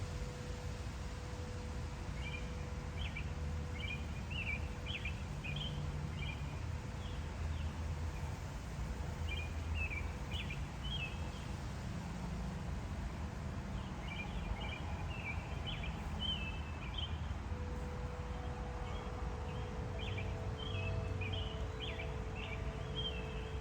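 Birds singing in short bursts of quick chirped phrases, over a steady low outdoor rumble. Wind chimes ring with long held tones, and more chime tones join in about two-thirds of the way through.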